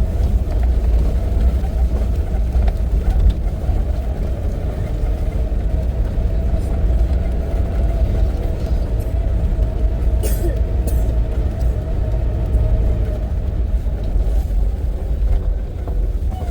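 A vehicle running: a steady low rumble of engine and road noise, with a couple of short clicks about ten seconds in.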